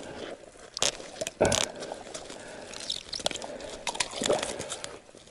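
Crunching and scraping of ice and slush in a fishing hole, worked by gloved hands as a large burbot is forced up through the too-narrow hole, with scattered sharp clicks and a couple of louder scrapes about a second and a second and a half in.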